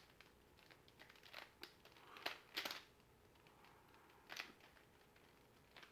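Faint, irregular plastic clicks and short scraping rasps of a Mirror Cube's layers being turned by hand during a solve, with the loudest turns about two and a half and four and a half seconds in.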